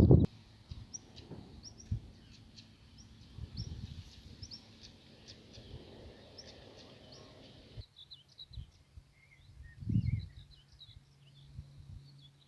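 Small birds calling: a run of short, high chirps, then about eight seconds in a different set of lower twittering calls. A low thump about ten seconds in.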